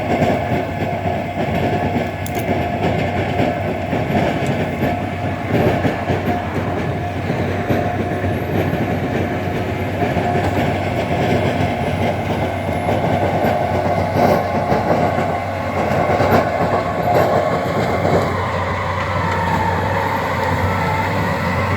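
Tractor with a shovel loader running steadily, with a constant engine drone and frequent metallic clanks and rattles, while it works loading cut trees.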